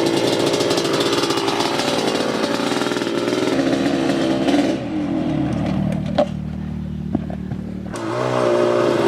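Dirt bike engine running close by, its pitch holding fairly steady, dropping about five seconds in, then rising again near the end.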